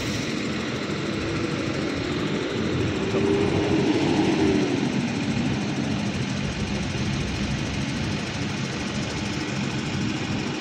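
Diesel engine of a Mercedes-Benz 1626 intercity bus running as the bus pulls out. Its pitch rises and falls, a little louder, about three to five seconds in.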